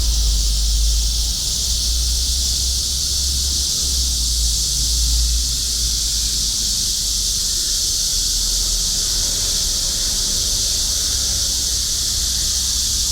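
A chorus of cicadas buzzing in one steady, unbroken high-pitched drone, with a low rumble underneath that is strongest in the first few seconds.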